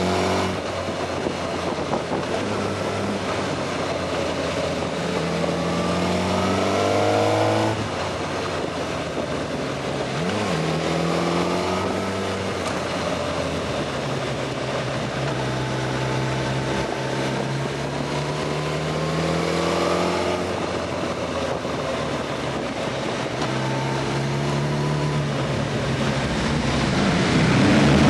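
Suzuki GSX-R 1000 inline-four motorcycle engine heard from on board, rising in pitch several times as it accelerates out of bends and dropping back between, over steady wind noise. It gets louder near the end as the bike enters a road tunnel.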